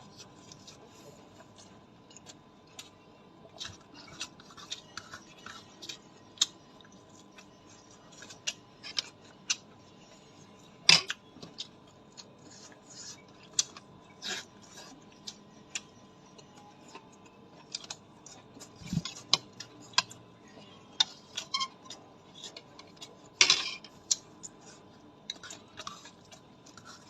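Irregular light clicks and taps, a few a second, with two louder knocks about eleven and twenty-three seconds in, over a faint steady hum.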